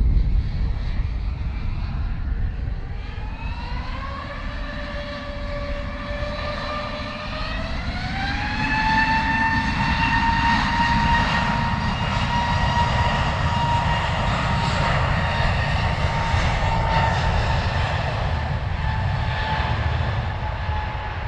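Airbus A320neo's turbofan engines spooling up: a whine climbs in pitch in two steps, about four and eight seconds in, then holds steady over a low rumble.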